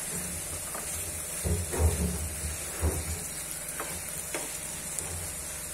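Masala chicken pieces frying with a steady sizzle in a non-stick kadai, stirred with a wooden spatula that scrapes through them and bumps against the pan several times.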